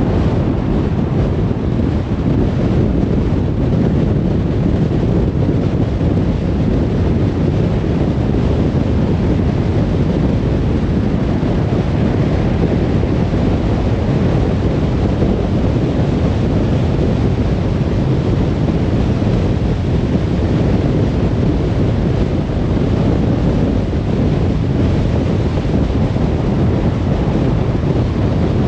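Steady driving noise of a car on the road: a low, even rumble of tyres and rushing wind, with no change in pitch or level.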